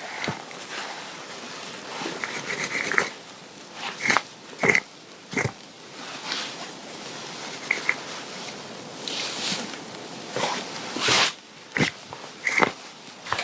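Clothing being handled and adjusted: irregular fabric rustling with scattered sharp clicks and crinkles.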